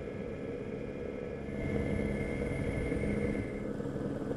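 Off-road rally vehicle's engine running steadily at speed across desert sand. It gets a little louder about a second and a half in, with a thin whine over the drone.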